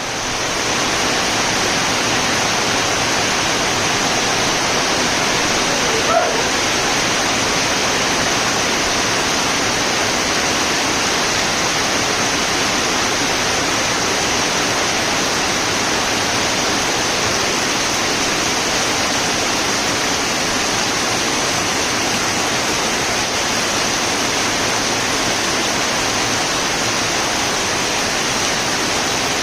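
Heavy rain falling in a steady, even hiss. One brief, sharp sound stands out about six seconds in.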